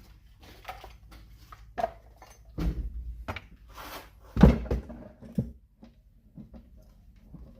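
Knocks and clatter of hard objects being handled and set down, a few scattered hits with the loudest thump about halfway through, then only faint low background noise.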